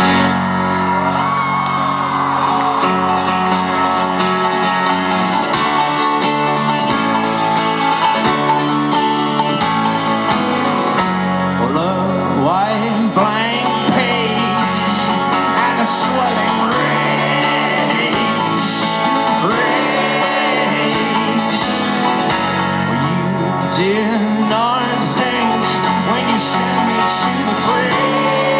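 Folk-rock band playing live: an instrumental passage of guitar and steady bass chords, with wordless singing whose pitch slides up and down over it.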